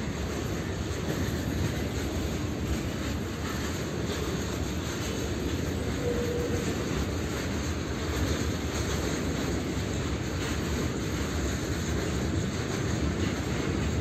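Steady rumble of a long train of steel freight hopper wagons rolling past on the track.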